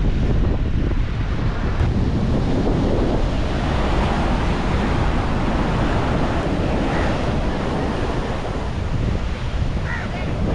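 Sea waves washing and breaking, with wind buffeting the microphone in a steady low rumble.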